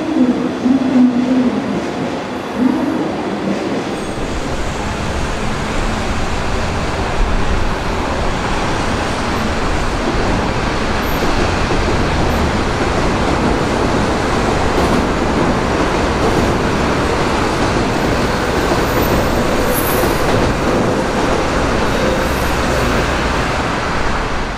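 Orange JR Osaka Loop Line electric commuter train running along the track through the station: a steady rumble of wheels and running gear that swells about four seconds in and holds.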